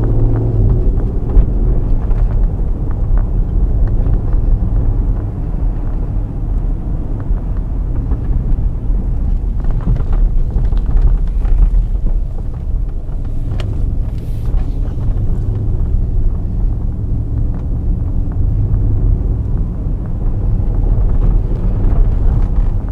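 2013 Mercedes-Benz GL 63 AMG's 5.5-litre twin-turbo V8 running while the SUV drives along, a steady low engine drone over road and tyre noise, with a few light knocks around the middle.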